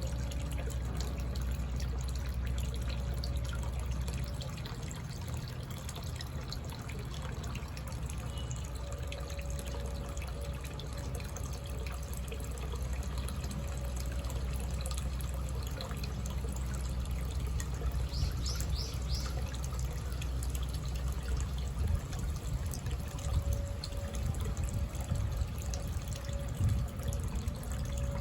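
Water trickling and dripping steadily with a low rumble underneath. About two-thirds of the way through comes a short bird call of about four quick high notes.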